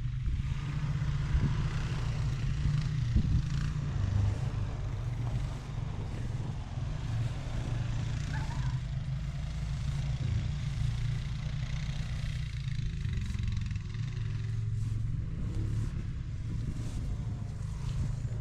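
Vintage John Deere tractor engine idling steadily with an even, low rumble.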